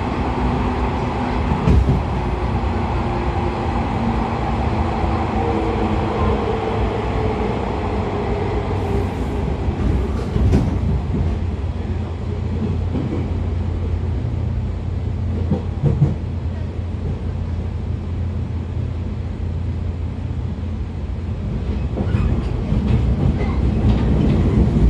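Running noise of a 113 series 5700 subseries electric train's motor car, with MT54 DC series-wound traction motors on DT21B bogies: a steady low rumble. A motor and gear hum is heard for the first several seconds and then fades out. Single wheel thumps over rail joints come a few times.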